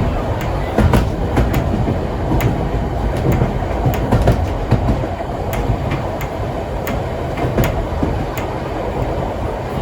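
Heritage steam-train carriages rolling along the track: a steady low rumble with the wheels clicking over rail joints, one or two clicks a second.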